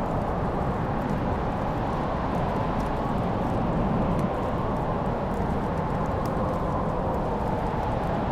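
Crackling wood fire: a steady low rushing noise with a few small, sharp crackles and pops scattered through it.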